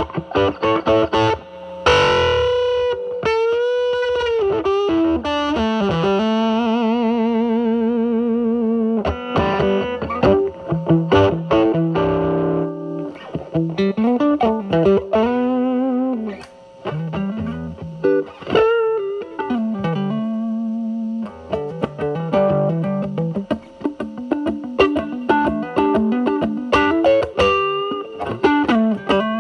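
Electric guitar, a Telecaster through a DIY Mosrite Fuzzrite clone fuzz pedal (silicon 2N2369 transistor) into a Marshall Valvestate amp's drive channel, with the fuzz cleaned up by the guitar's volume. It is playing bluesy single-note lines with string bends and wide vibrato.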